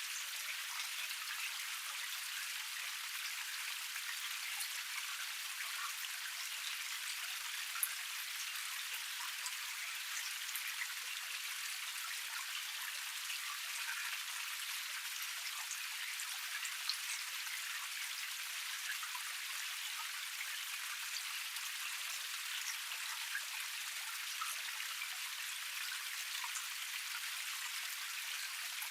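Water flowing down a small waterfall cascade: a steady, thin splashing hiss with no low rumble, dotted with little droplet splashes, two of them a bit louder about eight and seventeen seconds in.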